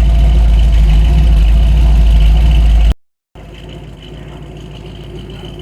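A car engine running nearby with a heavy low sound. About three seconds in it cuts off abruptly, and after a brief silence a quieter engine sound carries on.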